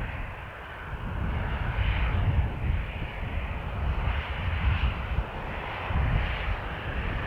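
Aircraft engines running with a steady rushing noise, while wind buffets the microphone with uneven low rumbles.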